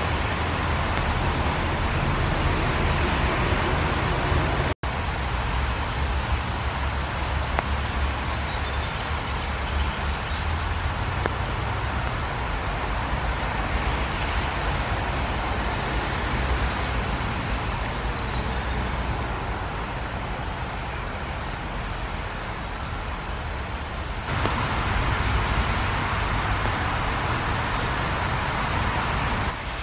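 Steady hiss of rain falling on leaves over a low, steady rumble. The sound drops out for an instant about five seconds in and gets a little louder near the end.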